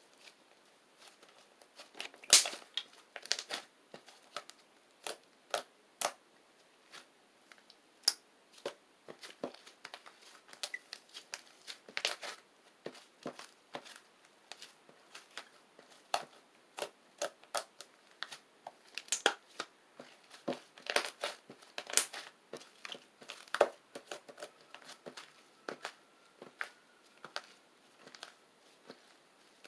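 Shaving-foam slime being squeezed and kneaded by hand, giving irregular sharp crackles and pops of trapped air, several a second at times.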